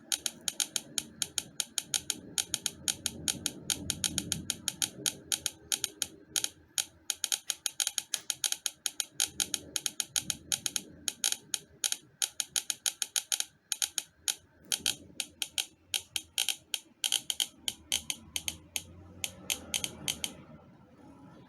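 Rapid, irregular sharp clicks, several a second, over a faint low hum; the clicking stops about a second before the end.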